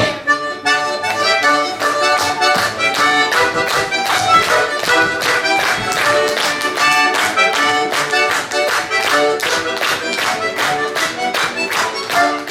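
Accordion playing a lively tune in chords, with a quick, steady beat.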